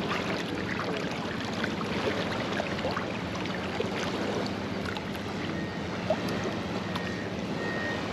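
Calm sea water lapping and splashing lightly around a person standing in it, with a steady low hum underneath.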